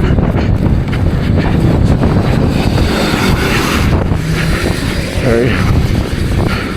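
A 110cc pit bike's single-cylinder four-stroke engine revving hard under load, climbing through deep snow, with heavy wind buffeting the microphone.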